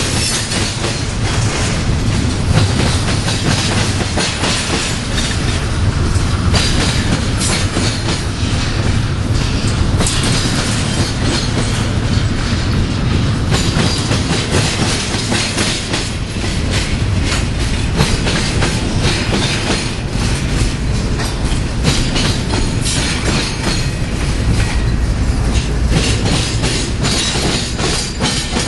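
Double-stack intermodal freight train rolling past at steady speed: a continuous heavy rumble with the clickety-clack of steel wheels over the rail.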